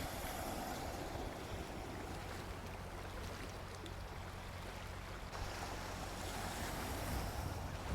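Gentle sea waves washing onto a beach: a steady rush of surf that swells a little at the start and again in the second half.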